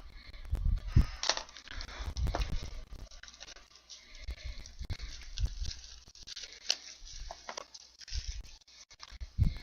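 Hands handling and tearing open trading-card packaging: irregular rustling and tearing with scattered clicks and knocks of cardboard.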